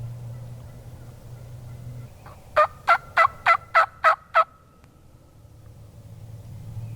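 A quick series of seven wild-turkey yelps, each note dipping and rising in pitch, evenly spaced at about three a second and loud against the woods.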